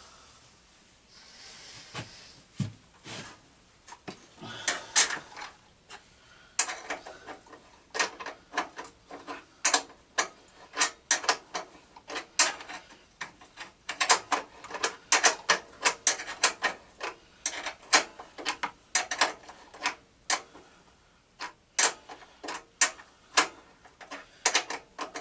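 Hand-tool work on a garden tractor: a long run of sharp metallic clicks, several a second, coming in bursts with short pauses.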